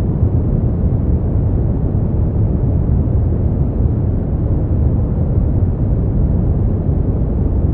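Steady generated noise for sleep, billed as white noise: an even, unbroken hiss weighted toward the low end, so it sounds deep and rumbling rather than bright, with no treble at all.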